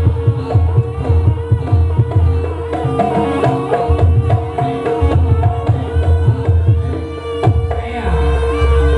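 Live Javanese jaranan ensemble music: kendang hand drums beat a quick rhythm over a long held tone, with melodic lines and a deep low rumble underneath.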